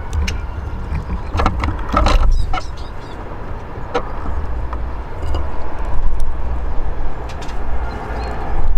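Steady low outdoor rumble with scattered sharp clicks and taps, and a brief faint high chirping about two seconds in, typical of Eurasian siskins feeding at a balcony bird table.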